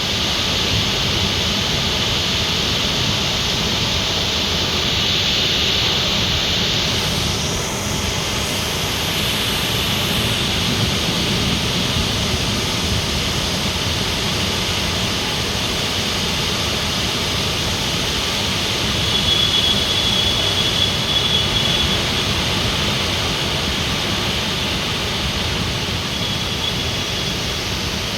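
Waterfall pouring in heavy rain: a loud, steady rushing roar of water.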